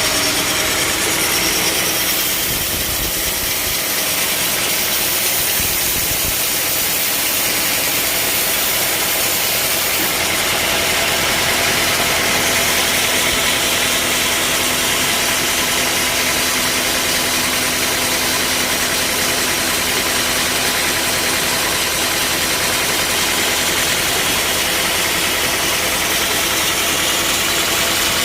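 Band sawmill machinery running steadily, with a constant engine-like mechanical sound. A bright high hiss eases off about ten seconds in.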